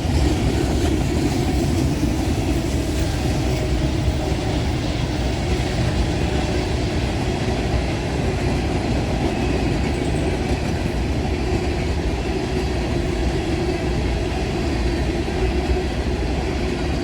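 Freight train cars rolling past at speed: a steady rumble of steel wheels on the rails, with a steady hum underneath.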